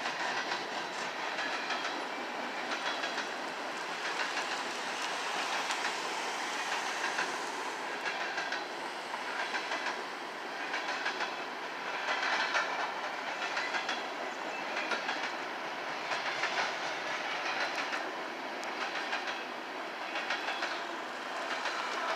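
Empty coal train cars rolling past, their wheels clacking over rail joints in repeated clusters over a steady rushing rumble.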